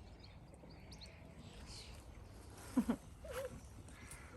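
A dog gives a brief two-part yelp that falls in pitch, followed by a short, faint whine.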